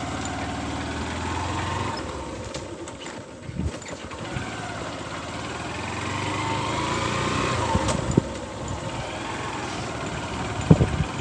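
A small vehicle engine running. It sounds steady at first, then its sound shifts and there are a few short knocks.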